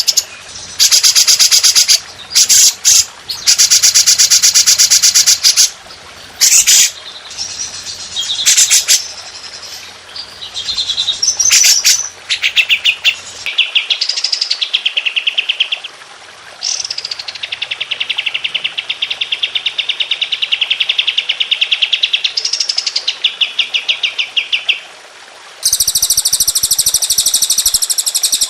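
Songbirds singing loud, high-pitched bursts of very rapid repeated notes, the fast rattling 'tembakan' style of song, in a series of one- to three-second phrases that start and stop abruptly. A few of the phrases fall in pitch.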